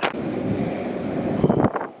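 Wind buffeting the microphone: a steady low rumble with a strong gust about a second and a half in, then easing off.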